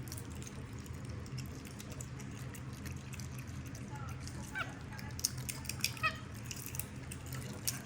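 Pet monkeys eating popcorn: small crunching clicks and a few short, high squeaks from about halfway in, over a steady low hum.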